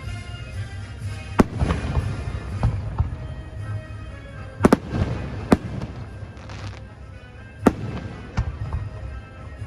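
Aerial fireworks bursting in a series of sharp bangs, about seven in all and irregularly spaced, each trailing off in an echo, over a low rumble. Music plays continuously underneath.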